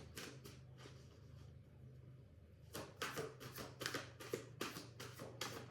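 Rune oracle cards being shuffled by hand: a quick run of clicks and flicks, a short pause, then a longer, denser shuffle.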